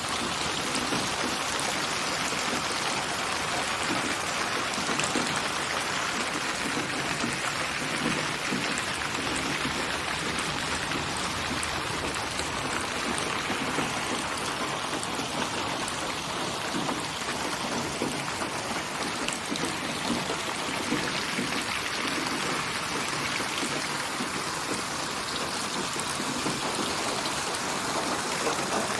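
Steady rain: a dense, even patter of raindrops on surfaces. It is a built-up rain soundscape mixed from many rain recordings and placed in 3D (8D/HRTF) surround, so the drops seem to come from around the listener.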